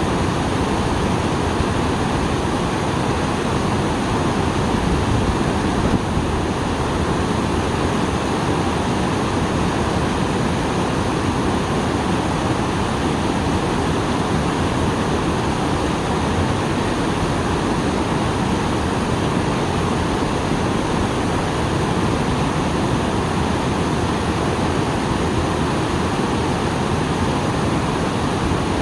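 A small waterfall running full after rain: water pouring and splashing in a steady, loud, unbroken rush.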